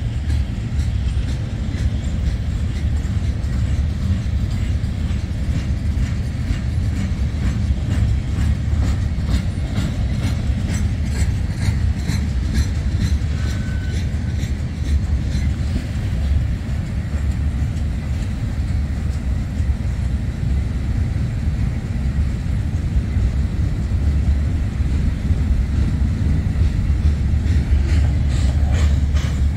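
CSX freight train rolling past close by: a steady low rumble of cars on the rails, with clickety-clack of wheels over rail joints.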